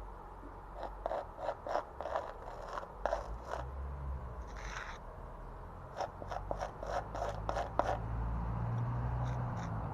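A hand tool at work on the repair, making two quick runs of short, sharp scraping clicks with a brief pause between, over a steady low rumble.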